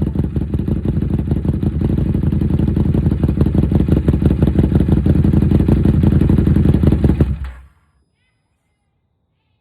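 Buell 1125CR's 1125 cc V-twin running through a loud aftermarket Dean Adams exhaust, a steady fast low pulse. It cuts off about seven and a half seconds in.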